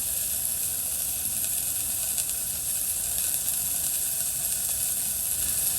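Hamburger patties with shiitake mushrooms on top sizzling steadily in a pan over the fire, with a few faint pops.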